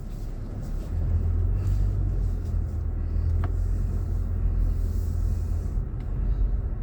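Low, steady rumble of a car's engine and tyres heard from inside the cabin while driving, growing louder about a second in as the car picks up.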